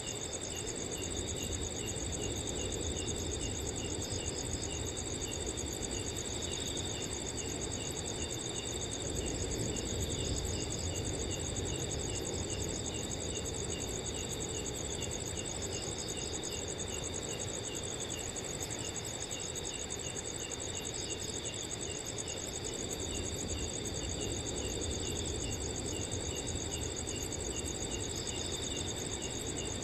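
Crickets chirping continuously in several layers: a steady high trill, with one cricket chirping about two to three times a second below it. A soft low wind rush rises and falls gently underneath.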